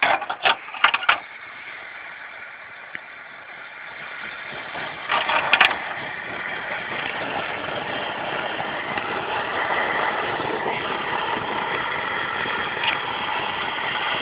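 Several sharp clicks in the first second, then a short burst about five seconds in, after which a portable camp stove's burner keeps up a steady rushing hiss while it heats the espresso.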